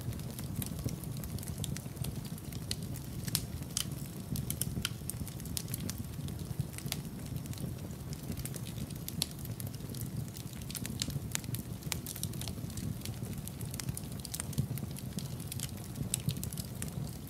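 Wood fire crackling in a fireplace: irregular sharp pops and snaps scattered throughout, over a steady low rumble.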